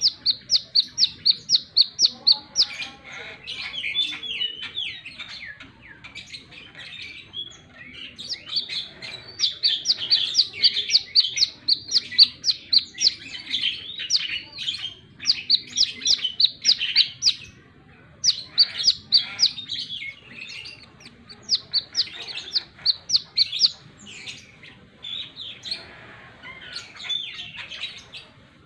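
Brown-throated sunbird (kolibri kelapa) singing: bouts of fast, evenly repeated high chips, about five a second, broken by lower twittering warbles.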